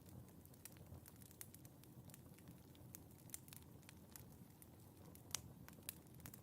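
Fire in a fireplace crackling faintly: scattered sharp pops over a low steady rumble, the loudest pop about five seconds in.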